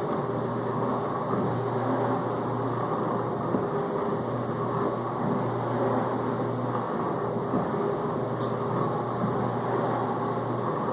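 Whirlpool dishwasher in its main-wash circulation: the wash pump running with a low hum while water sprays and splashes steadily inside the tub. The hum drops out briefly about seven seconds in.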